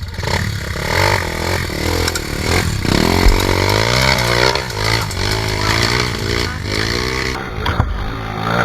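Trail motorcycle engine revving hard, its pitch surging up and down again and again as the rider works the throttle on a steep climb, with a few sharp clattering knocks from the bike.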